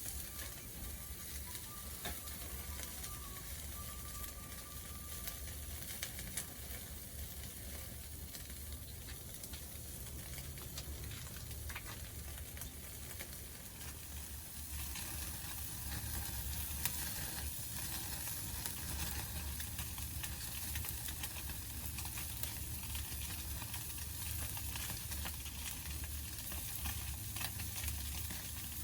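Wood campfire burning with a steady sizzle and scattered small crackles and pops, which grow a little louder about halfway through.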